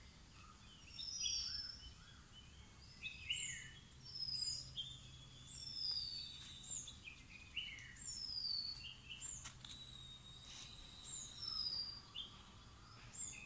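Several small birds singing: short whistled notes that slide downward, repeated every second or so, with a quick run of very high ticks about three seconds in and a longer held whistle in the middle.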